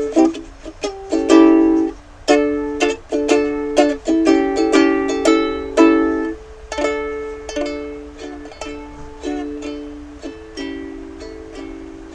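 Ukulele strummed in an easy strum pattern, alternating between D and A7 chords.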